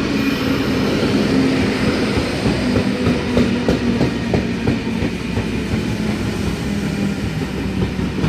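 Sydney Trains K-set eight-car electric train rolling into the platform. Its wheels click over the rail joints under a low, steady hum.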